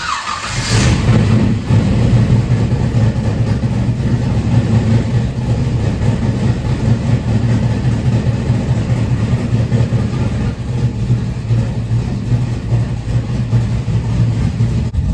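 Carbureted Chevy Malibu engine catching on its first start after sitting about two years, then running loud and steady at idle.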